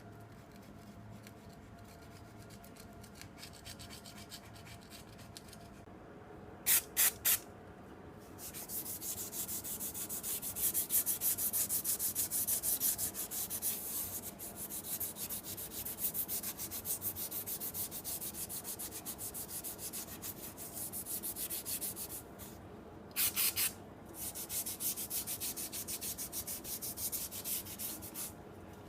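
Rapid scrubbing strokes against a part, starting about a quarter of the way in, running steadily for over ten seconds, pausing, then going again briefly near the end. Three quick hissing bursts come just before the scrubbing starts, and two more come in the pause.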